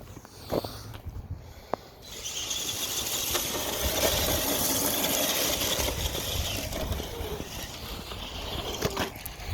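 Radio-controlled truck with a brushless electric motor driving: a steady high whine from the motor and drivetrain comes in about two seconds in, after a few light knocks, and eases off toward the end.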